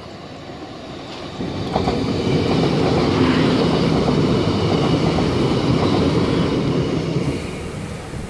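Diesel multiple unit (KRD) passing close by: its diesel engine running and wheels rolling on the rails. The sound builds about a second and a half in, stays loud through the middle as the cars go by, and fades near the end.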